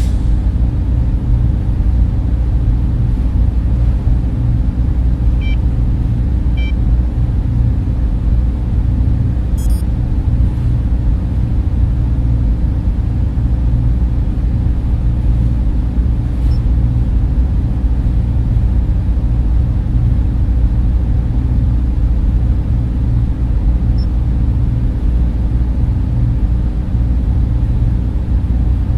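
Server room cooling fans running with a steady, low, humming whir and an even hiss above it. A few faint short high blips sound about five to ten seconds in.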